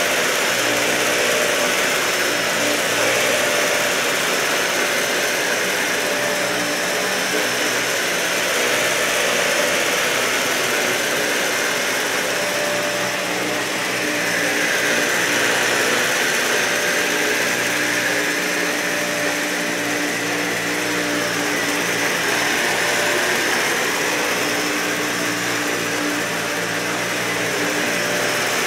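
Dyson vacuum cleaner running steadily over carpet: a constant motor hum under a rush of suction air that swells and eases slowly every several seconds as the head moves over the pile.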